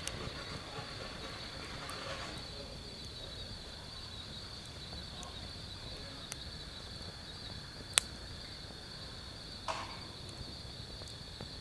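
Crickets and other night insects chirring steadily, with a few sharp pops and crackles from a wood fire burning in a fire pit, the loudest pop about eight seconds in.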